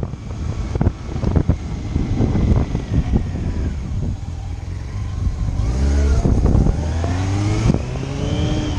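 Motorcycle engine accelerating, its pitch climbing, then dropping at a gear change about two-thirds of the way in and climbing again. Wind rushes over the microphone throughout.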